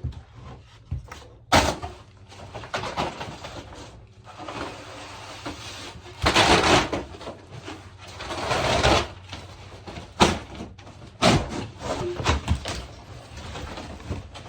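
Unpacking a boxed fridge freezer: cardboard and plastic packaging rustling and tearing in several stretches, with a few sharp knocks about a second and a half in and again around ten and eleven seconds.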